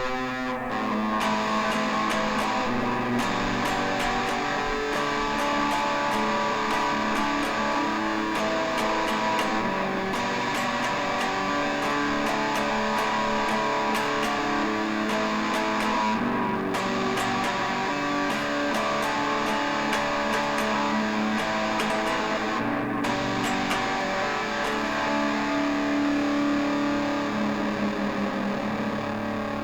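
Electric guitar playing an instrumental passage of a rock song, with no vocals.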